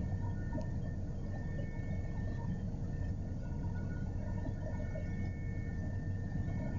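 Helicopter cabin noise in flight: a steady low drone with several faint, steady whining tones above it.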